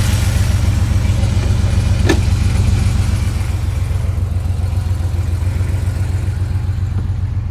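Porsche 964's air-cooled flat-six idling steadily while parked, with a single short click about two seconds in.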